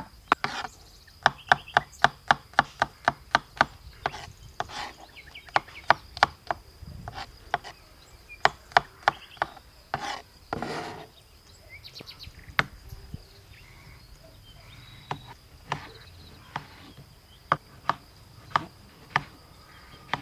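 Kitchen knife chopping food on a cutting board: a quick, even run of about four chops a second, then slower, irregular chops with a short scraping sound about halfway through.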